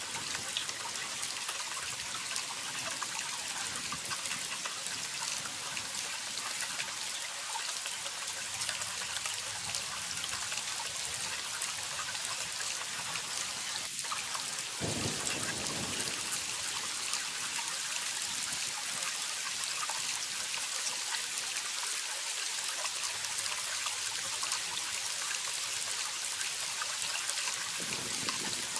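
Waterfall: water falling and splashing in a steady, hissing rush.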